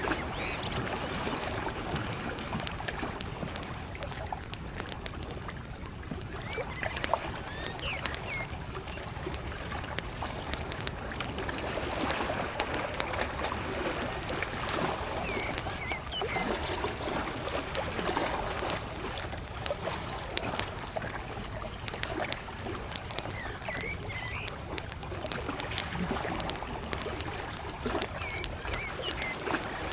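Campfire crackling with many sharp pops, over small lake waves lapping. Faint bird chirps come through now and then.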